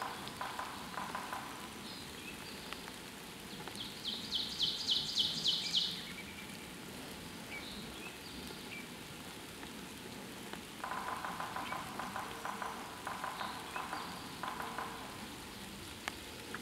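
Woodland birdsong over a steady hiss: a loud, rapid high trill lasting about two seconds partway through, and lower repeated notes in short phrases near the start and again later.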